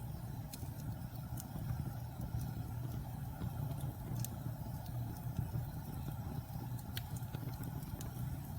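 Logs burning in a fireplace: a steady low roar of the flames with scattered sharp crackles and pops, several a few seconds apart.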